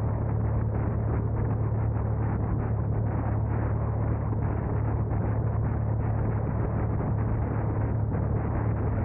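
A car driving along at a steady pace: continuous engine and road rumble with a steady low hum and no distinct events.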